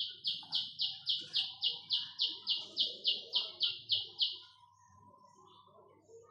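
A bird calling a rapid, even series of about sixteen short, high, slightly falling notes, three to four a second, that stops about four and a half seconds in.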